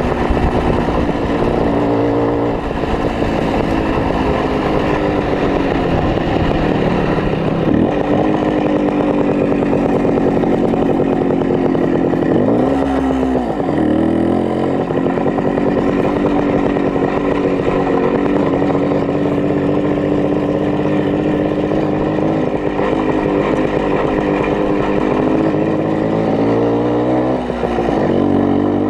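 Minsk 125 motorcycle's single-cylinder two-stroke engine running steadily. Its note dips and then climbs back three times, about a third of the way in, near the middle and near the end.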